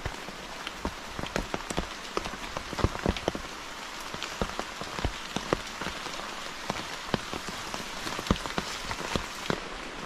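Steady rain falling, with many heavy drops striking close by at irregular intervals over a constant hiss.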